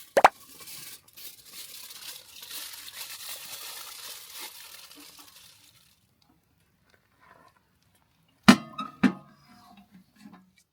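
A click, then a wrapper crinkling and tearing for about five seconds, and near the end two sharp knocks like things being set down.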